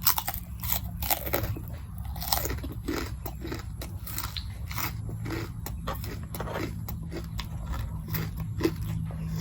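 Close-miked eating: irregular crisp bites and crunches with chewing, as the mouthfuls are worked through.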